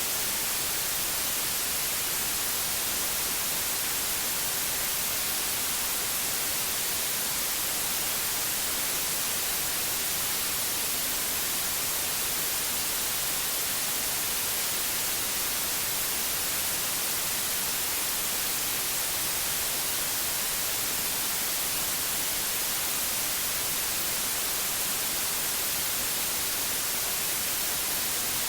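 Synthetic white noise: a steady, even hiss with no variation, strongest in the treble.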